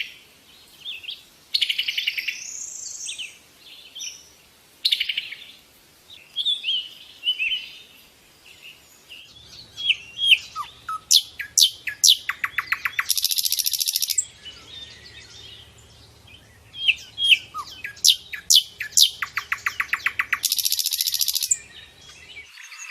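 Wild birds singing: bursts of quick whistled notes that sweep down in pitch, broken by loud buzzy trills lasting a second or so, twice in the second half.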